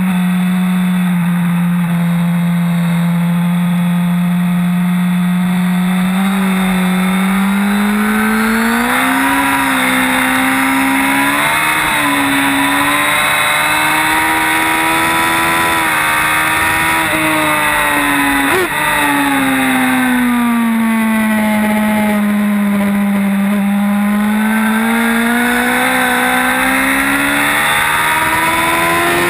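Sport motorcycle engine heard from on board under way. Its pitch holds low at first, climbs steadily through the middle, gives a short sharp blip about two-thirds through, then falls and climbs again near the end.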